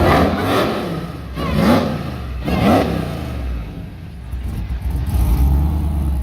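A car engine revs up three times in quick succession, each rev rising in pitch, as a car accelerates away. A deeper, steadier engine rumble takes over near the end.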